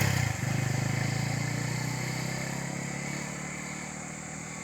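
A motor vehicle's engine running at a steady pitch and slowly fading away.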